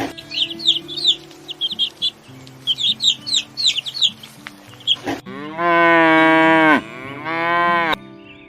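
Quick repeated bird chirps over soft background music, then a cow mooing twice, a long loud moo about five seconds in and a shorter one just after, each dropping in pitch as it ends.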